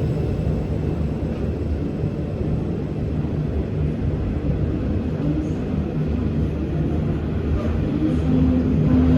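Freight train hauled by 81 class diesel-electric locomotives running through, a steady low engine rumble with a humming tone rising a little near the end.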